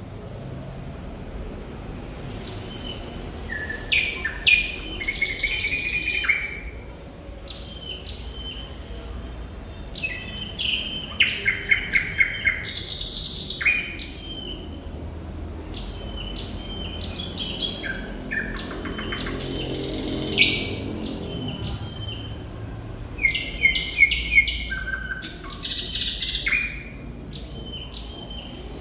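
Thrush nightingale singing in varied phrases: series of short repeated piping notes and dry, rapid rattles, with brief pauses between phrases.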